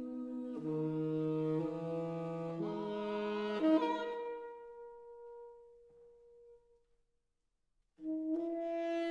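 Classical chamber music: an instrumental passage of slow, held notes in two parts, a saxophone among them, changing pitch step by step. The notes die away about halfway through, there is a second of silence, and a new held note comes in near the end.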